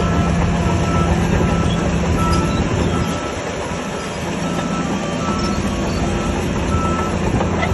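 Heavy diesel earthmoving machine running under load with a low steady drone and dense metallic rattling, while a reversing alarm beeps steadily, a little under a second between beeps.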